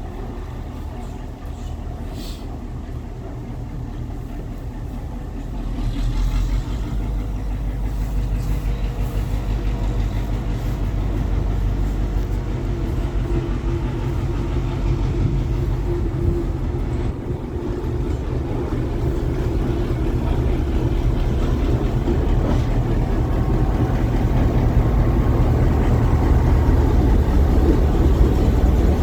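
Train approaching, a low rumble that jumps up about six seconds in and keeps growing slowly louder.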